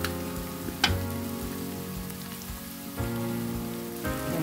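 Sambal belacan paste sizzling in hot oil, a steady hiss, with one sharp tap about a second in. Background music with held chords plays along.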